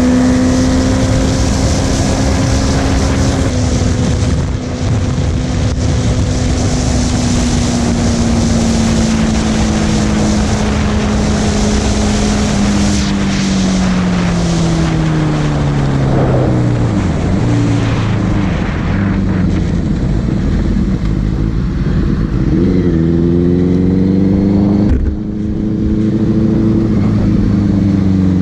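Motorcycle engine heard from the moving bike over wind noise: it holds steady revs for a few seconds, then its note falls slowly as the bike slows down, then it climbs again through a couple of gear changes in the last several seconds.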